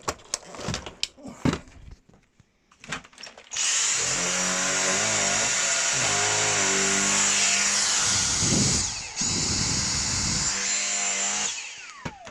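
Dyson V6 cordless stick vacuum switched on about three seconds in after a few handling clicks, its motor running with a high steady whine over rushing air. It cuts out briefly and restarts near the middle, then is switched off near the end, the whine falling away as the motor winds down.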